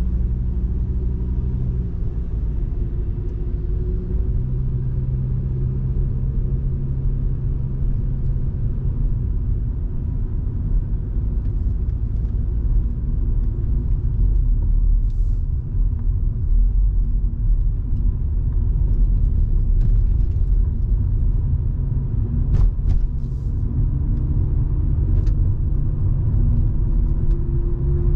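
Volvo V70 2.5T's turbocharged five-cylinder engine and road noise making a steady low rumble while driving, the engine note rising and falling a few times with speed. A few short sharp clicks come in the second half.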